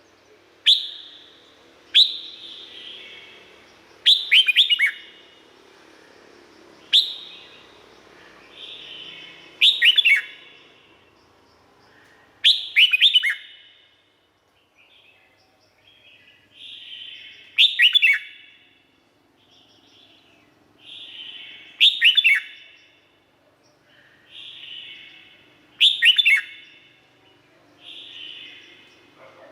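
Red-whiskered bulbul singing: about ten short, bubbly phrases at intervals of two to four seconds, each a quick run of sharp falling whistled notes.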